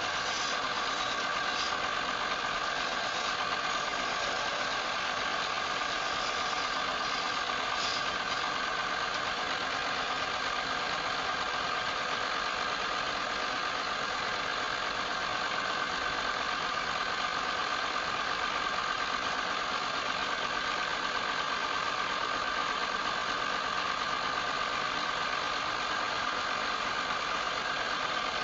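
Wood lathe running steadily: a constant motor whine over an even hiss.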